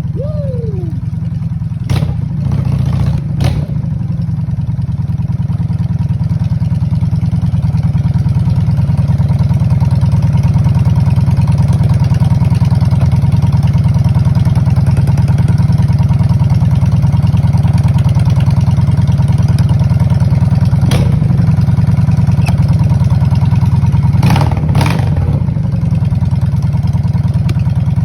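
1996 Honda Shadow's V-twin engine running steadily with its mufflers cut off, a loud, deep exhaust note. A few sharp clicks sound over it.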